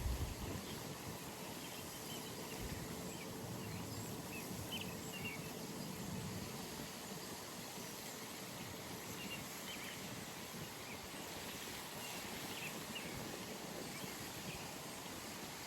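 Outdoor pond ambience: a steady background hiss with scattered short, faint bird chirps. A brief low buffet of wind on the microphone at the very start.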